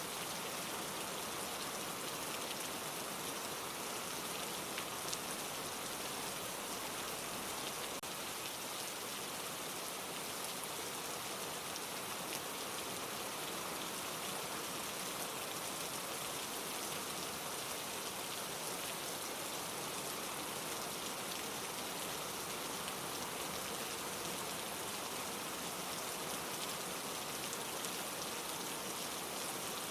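Steady light rain falling on leaves, a soft even hiss with the faint patter of individual drops.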